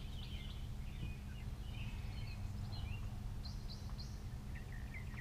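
Small birds chirping and singing on and off over a steady low background rumble.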